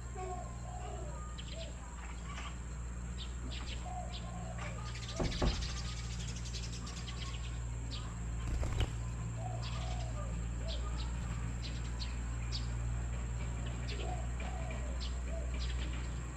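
Birds calling with short chirps and small wavering notes over a steady low hum, with two brief louder rustles, like wings flapping, about five and nine seconds in.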